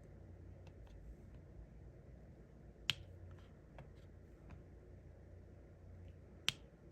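Diamond painting pen tapping resin drills onto the canvas: scattered faint clicks, with two sharper, louder clicks about three seconds in and near the end.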